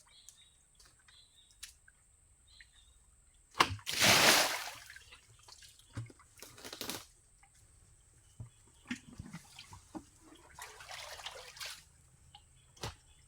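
Splashing and sloshing in shallow water: a sharp knock then one loud splash about four seconds in, followed by several smaller splashes and swishes.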